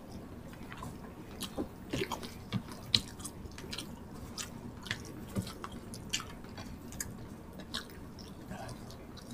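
Close chewing of rice and tocino (sweet cured pork) by two people, with scattered short wet mouth smacks and clicks.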